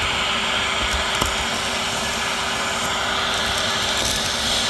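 Vacuum cleaner running steadily, a constant motor hum under an even rush of air.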